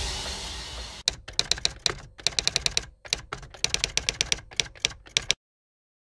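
Rapid, sharp clicks in uneven runs, like keys being typed, for about four seconds, cutting off abruptly into silence; the tail of fading music is heard just before them.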